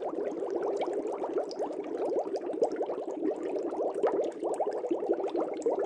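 Air bubbles rising in a fish tank: a dense, continuous stream of small burbling pops from an aquarium air stone or aerator.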